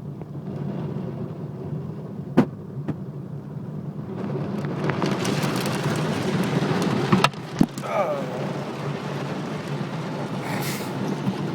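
Automatic car wash working over a car: a steady low rumble, with a loud hiss of water spray against the body building up about four and a half seconds in, and a few sharp knocks.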